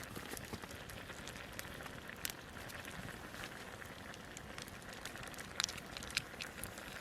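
Wood campfire burning, with a steady soft hiss and scattered crackles, and a few sharper pops.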